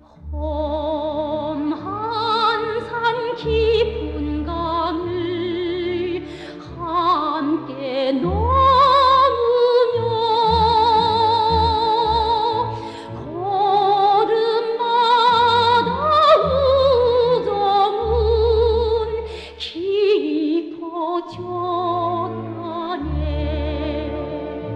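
Music: operatic-style singing with a wide, wavering vibrato and sliding pitch changes between notes, over accompaniment with low bass notes that come and go.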